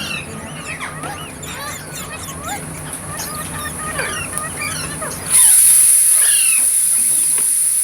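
Parrots chirping and chattering in many quick overlapping calls over a steady high-pitched hiss, which jumps much louder about five seconds in.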